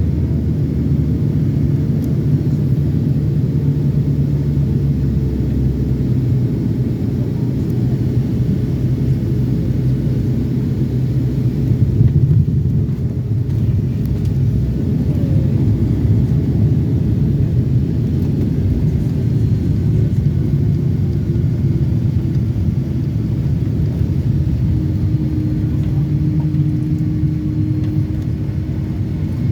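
Airliner cabin noise inside a Boeing 757-300: a steady low rumble of engines and airflow with a few held low tones, on the way in to land. About 6 s in the lowest hum drops away, and one tone slowly sinks in pitch.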